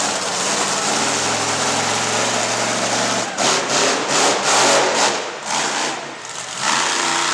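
Monster truck engine running steadily for about three seconds, then revved in a run of rough throttle surges, surging again near the end.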